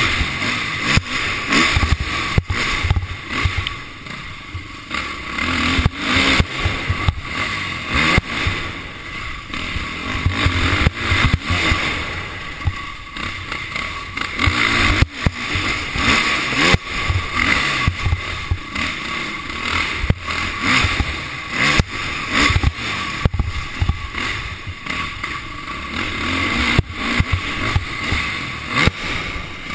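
Motocross bike engine revving up and down over and over as the bike is ridden round a dirt track, heard through a helmet-mounted camera. Frequent short sharp knocks cut through the engine sound.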